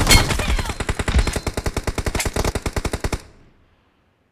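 Video game automatic gunfire: a rapid run of shots, about ten a second, that cuts off suddenly a little after three seconds in.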